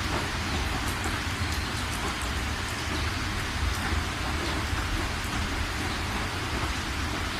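Steady rain falling, with scattered individual drop ticks over a constant low rumble.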